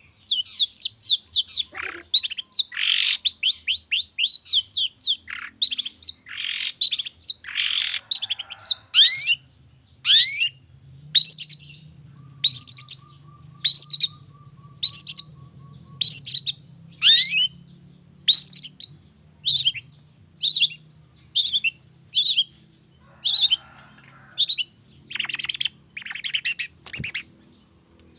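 Long-tailed shrike (cendet) singing. It starts with a fast jumble of varied notes for about nine seconds, then gives a steady series of sharp falling notes at a little over one a second, and ends with a few harsher, noisier calls.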